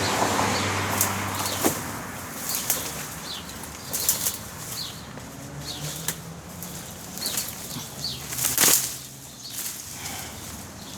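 Brush, leaves and twigs rustling and snapping as someone pushes through tangled overgrowth, in irregular bursts with a louder crackle near the end.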